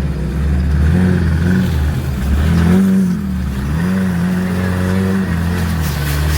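Off-road vehicle's engine revving up and down several times under throttle, over a steady low rumble.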